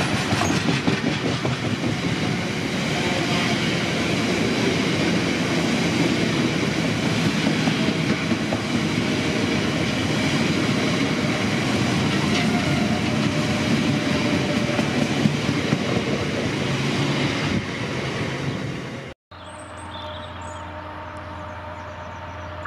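Freight train of bogie hopper wagons running past at speed, its wheels clattering rhythmically over the rails. About 19 seconds in, the sound cuts off abruptly and is replaced by a quieter steady hum.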